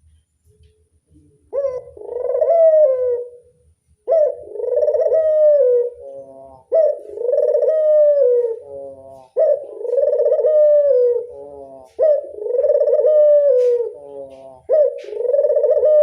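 Ringneck dove (burung puter) cooing loudly: six long coos, one after another at an even pace, starting about a second and a half in.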